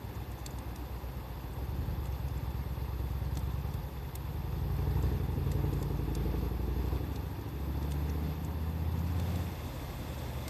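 Wood fire crackling with a few sparse pops, under a loud low rumble that swells in the middle and stops abruptly at the very end.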